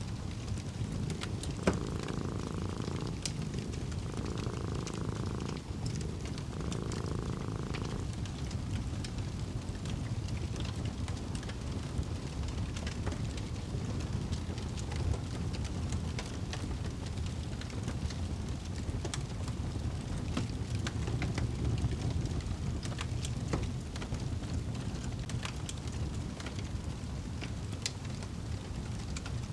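Wood fire crackling with scattered sharp pops, one loud pop about two seconds in, over a steady low rumble. A cat purring in three swells during the first eight seconds.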